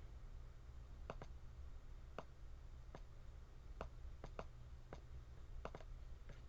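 Faint computer mouse clicks, some single and some in quick pairs, about ten over several seconds, over a steady low hum.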